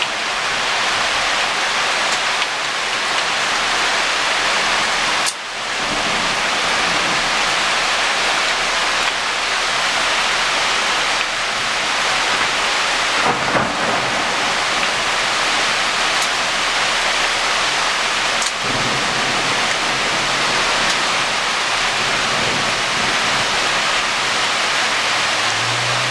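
Heavy rain pouring down in a thunderstorm, a loud steady hiss.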